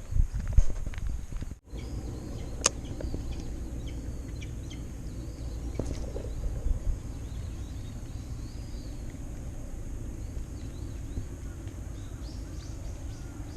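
Outdoor ambience: a steady low rumble of wind and surroundings, with many small high chirps of birds calling through most of it and a sharp click about two and a half seconds in.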